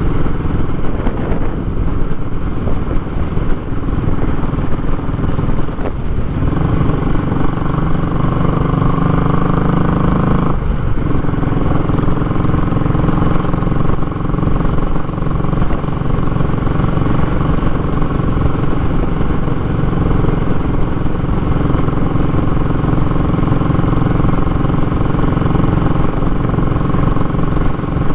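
Royal Enfield Classic 500's single-cylinder engine running loud through a short, raw exhaust while riding. The engine note shifts about six seconds in and dips briefly about ten seconds in.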